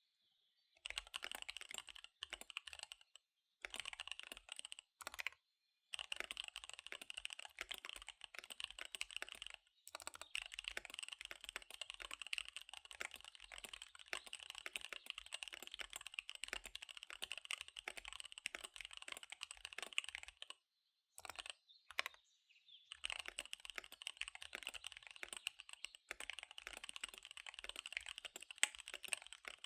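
Fast typing on a KBD75 V3 mechanical keyboard with SP-Star Dark Magic Girl tactile switches and DSA keycaps: rapid keystrokes in long runs, with short breaks a few times and a longer break of about two seconds past the two-thirds mark.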